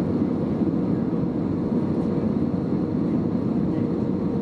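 Steady rumble of an Airbus A320neo's engines and airflow, heard inside the passenger cabin, with a faint steady hum running through it.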